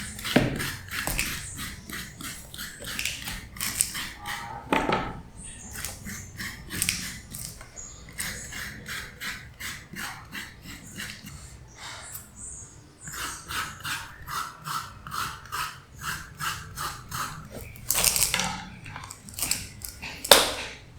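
Kitchen work with utensils: a fast, uneven run of clicks, scrapes and clatter, several strokes a second, with a few louder knocks near the end.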